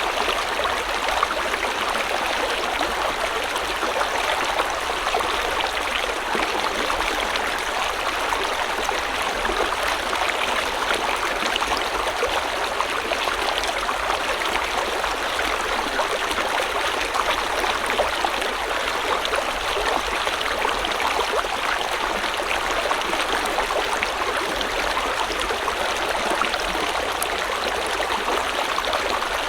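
River water running steadily over stones, a constant rushing and babbling flow with fine trickling detail.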